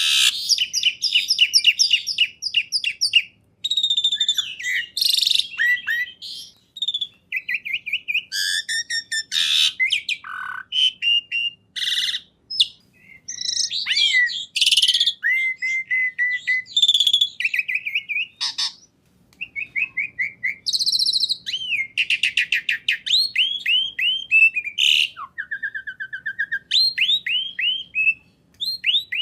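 A songbird singing a long, varied song of rapid trills, sweeping whistles and chirps, phrase after phrase with only brief pauses.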